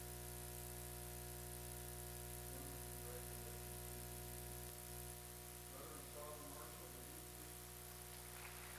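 Steady electrical hum and buzz on the recording's audio line. Faint, indistinct voices come through underneath it twice.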